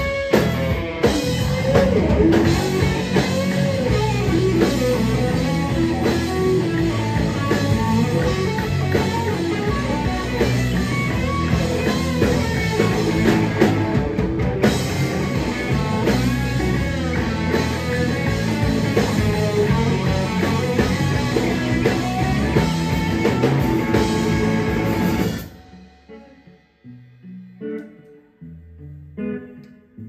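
Rock band playing, with guitar and drum kit. Near the end the full band cuts off suddenly, leaving a few sparse plucked guitar notes.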